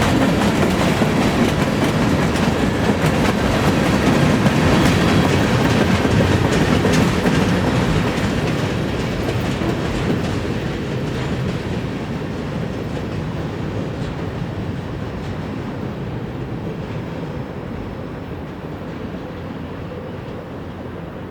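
Freight train cars rolling past, their wheels clacking over rail joints. The rumble fades steadily over the second half.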